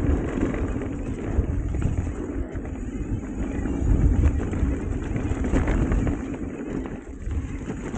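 Wind buffeting the microphone over the rattle and tyre noise of a mountain bike riding down a muddy trail, a steady rough rumble with many small knocks.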